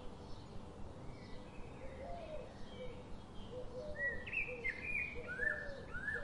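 Small birds chirping: a steady run of short, quick chirps, with louder, higher chirps from about four seconds in, over a faint steady background hiss.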